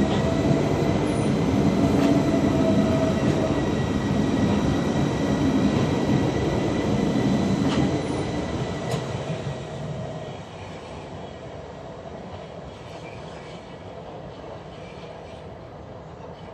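Electric train running, its motors giving a steady whine over the rumble of wheels on rail, with a few sharp clicks. The sound stays loud for about eight seconds, then fades over a few seconds to a lower steady rumble.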